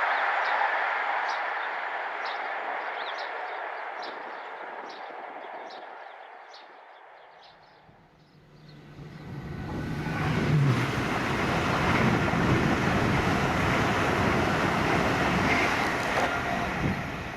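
A passing train fading away, with short high chirps over it, until it is near quiet about eight seconds in. A second train then comes up fast and passes close by with a loud, low rumbling run.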